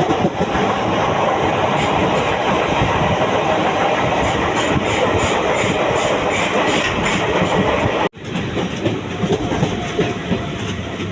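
A moving passenger train: wheels running on the rails with a clickety-clack and a steady rumble. About eight seconds in the sound breaks off abruptly for an instant and comes back a little quieter.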